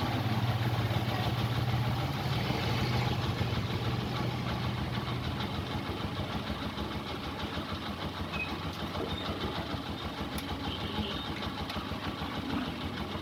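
Honda TMX 125's single-cylinder four-stroke engine idling steadily, running to put some charge into the freshly fitted battery; the hum gets somewhat quieter about six seconds in.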